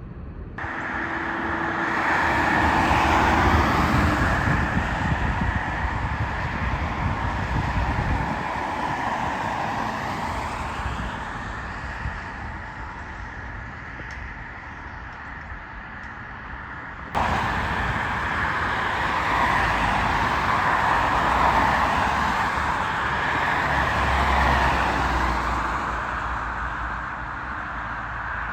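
Road traffic going by: vehicles swelling and fading as they pass, with an abrupt jump in level about 17 seconds in.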